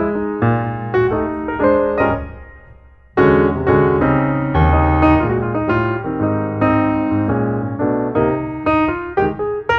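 Piano music: a melody of struck notes that fades out about two and a half seconds in and starts again a moment later.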